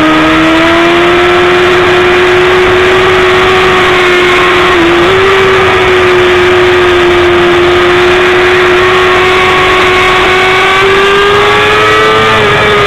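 BMW S1000RR's inline-four engine running at high, nearly steady revs under a dense rush of noise. The pitch dips briefly about five seconds in, then climbs slightly near the end.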